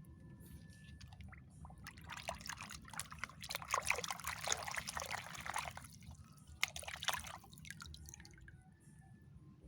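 Water splashing and trickling while toys are rinsed clean, strongest for a few seconds in the middle with a shorter splash near the end.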